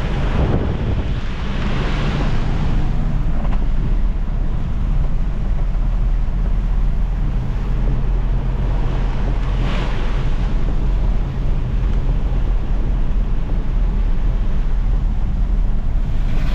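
A motor vehicle on the move: a steady low engine hum under a loud, even rush of road and wind noise, with brief swells about 2 and 10 seconds in.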